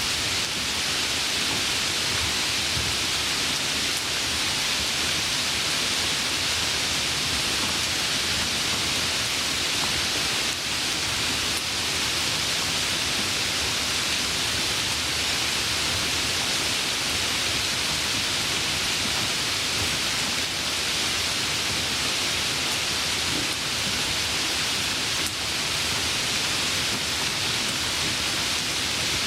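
Steady rain falling, an even hiss with no thunder or breaks.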